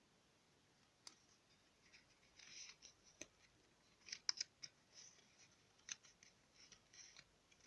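Faint, scattered sharp clicks and short crisp snipping or rustling sounds, several close together a little after four seconds in.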